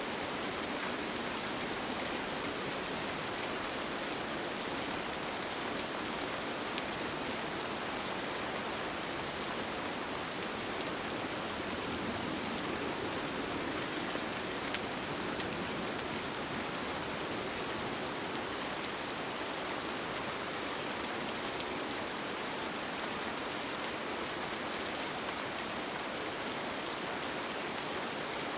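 Steady rain falling on a tent, with a constant patter and faint drop ticks.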